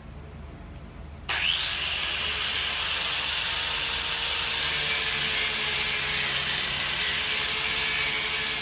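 Angle grinder switched on about a second in: its whine rises quickly as the motor spins up, then settles into a steady, loud grind as a coarse disc bites into the hard steel top of a railroad rail.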